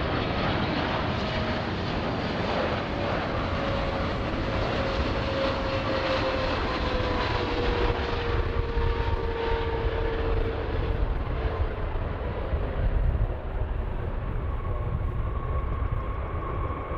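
Airplane engines running as an aircraft moves on or near the runway, a steady rumble with a thin whine that slides slowly down in pitch over the first ten seconds or so.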